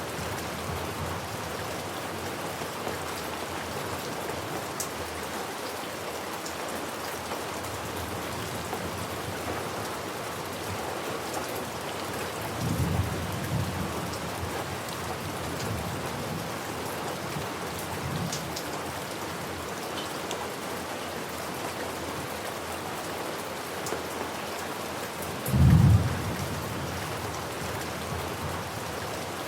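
Steady rain falling on a surface, with thunder rumbling low twice: a softer roll about halfway through and a louder, short clap near the end.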